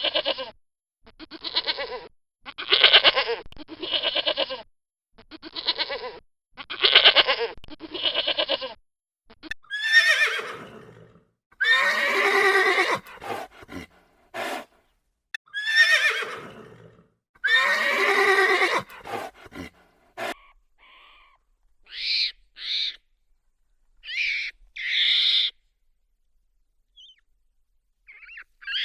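Calls of several different animals one after another. First comes a string of short cries with a shaking pitch, then three long cries that slide down in pitch, then a few short high calls.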